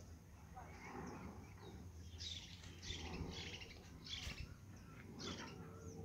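A bird calling in short, high chirps, about four of them in the second half, over a faint low background rumble.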